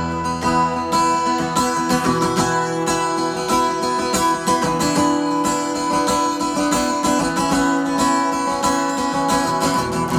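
Acoustic guitar strummed in a steady rhythm, ringing chords played as an instrumental stretch of a song.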